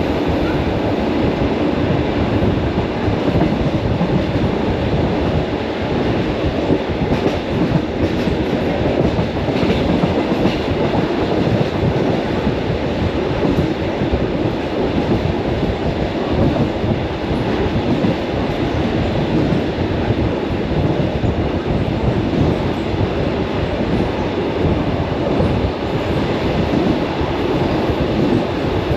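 Commuter electric train running along the track, heard from on board: steady noise of wheels on rails.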